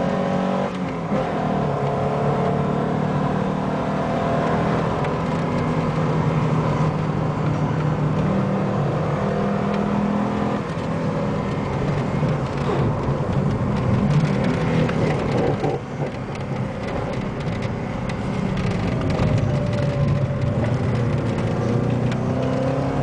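Alfa Romeo 33 1.7 16v's flat-four engine heard from inside the car, running hard at track speed with its pitch rising and falling through the gears. There are brief dips in level about a second in and again about two-thirds of the way through.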